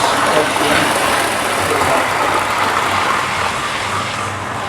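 Model trains running on the layout's track: a steady whirring, running noise of the motors and wheels on the rails.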